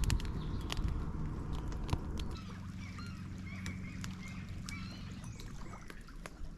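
Several short calls from water birds, one after another for a few seconds, over a faint low steady hum. Scattered sharp clicks and knocks in the first two seconds.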